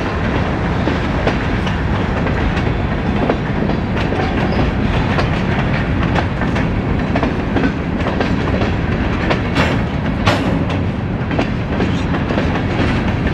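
Freight train of covered hopper cars rolling past: a steady rumble of steel wheels on rail, with clicks and clacks as the wheels cross rail joints, the sharp clacks coming more often in the last few seconds.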